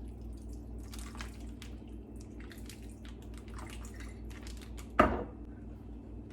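Balsamic vinegar pouring from a bottle into a plastic bag of chicken, heard as scattered small drips and splashes over a steady low hum. A single sharp knock comes about five seconds in.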